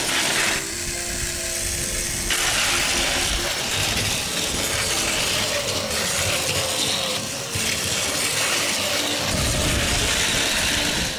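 Battery-powered Plarail toy train running close by, hauling freight cars: its small motor and plastic gearbox give a steady grinding whir and rattle as the plastic wheels roll over the plastic track. It gets louder about two seconds in.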